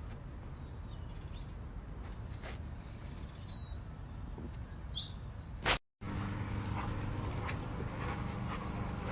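Birds giving short chirps every second or so over a steady outdoor rumble. About six seconds in there is a sharp click and a brief dropout, and after it the background comes back louder, with a steady low hum.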